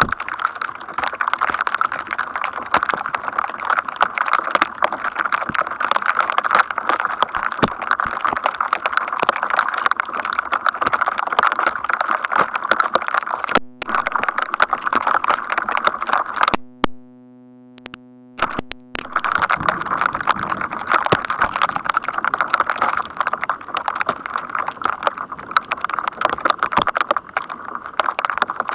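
Dense, continuous crackling of electrostatic noise from atmospheric discharges ahead of a thunderstorm, many fast clicks at once. About halfway through it briefly gives way to a steady electrical buzz for a couple of seconds, then the crackling resumes.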